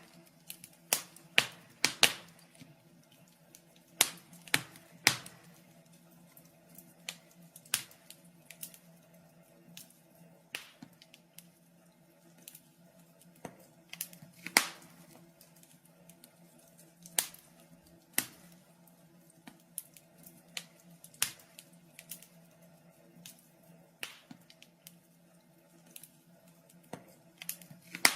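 Wood fire in a fireplace crackling: irregular sharp pops and snaps, a few of them loud, over a faint steady low hum.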